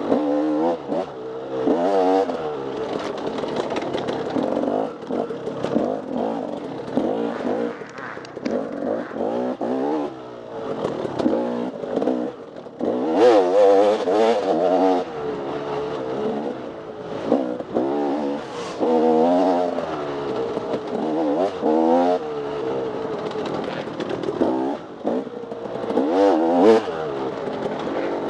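Dirt bike engine ridden hard off-road, revving up and falling back again and again as the throttle is worked, with knocks and rattles from rough ground.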